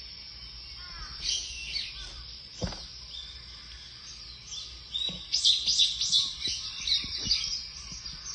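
Japanese white-eye (mejiro) calling: thin, high chirps and twitters, breaking into a quick, louder run of chirps about five seconds in.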